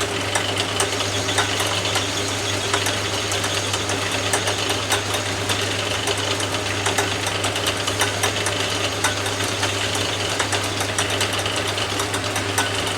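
Atlas 10 metal lathe running, taking a light finishing cut on a brass spigot: a steady motor hum under a constant fast clatter from the drive, winding down right at the end.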